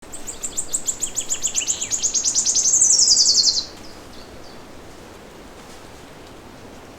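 A songbird singing a fast trill of high notes that speeds up and slides down in pitch, then stops abruptly about three and a half seconds in. A second, lower bird calls during the first two seconds. After that only a faint, steady outdoor background remains.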